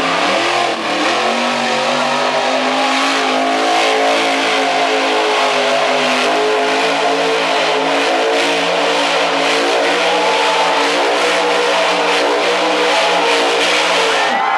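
Monster truck's big engine held at high revs as the truck spins in circles: the pitch climbs over the first couple of seconds, then holds steady with a slight waver.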